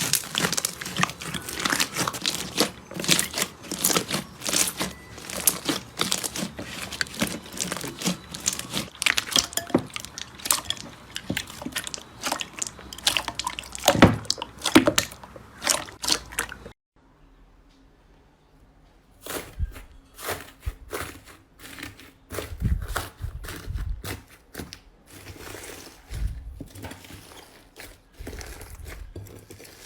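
Slime being squeezed and worked by hand: dense crackling and crunching clicks for about seventeen seconds, then after a short pause, slower, sparser squishing pops with soft low thumps.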